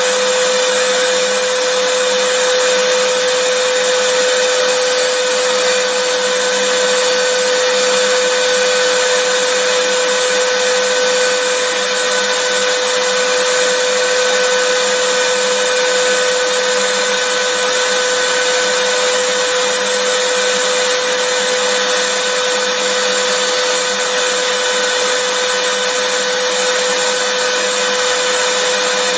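Vacuum cleaner motor running continuously: a loud, steady whoosh of air with a constant hum under it, no change in speed.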